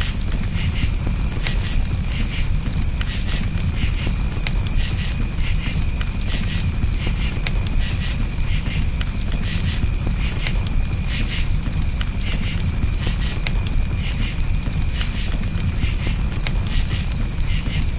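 Crickets chirping in repeated pulses over a crackling campfire, with scattered sharp pops from the fire and a steady low rumble.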